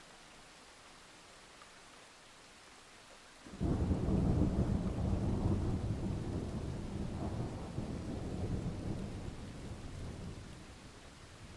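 Steady rain, then a thunderclap breaks in sharply about three and a half seconds in and rolls on as a low rumble that slowly dies away toward the end.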